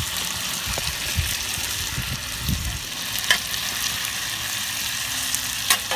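Onion, tomato and sliced mushrooms sizzling steadily in olive oil in a cast iron skillet over hot coals, while they are stirred with a utensil that clicks sharply against the pan twice, about three seconds in and near the end.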